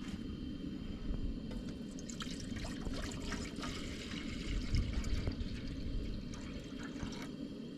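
Water being poured into a cooking pot for boiling pasta: a steady pouring stream with scattered small clicks.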